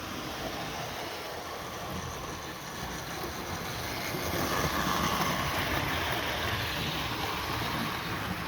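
Hornby 00 gauge model train running along the track: a steady noise of motor and wheels on rails that grows louder from about four seconds in, then eases off slightly.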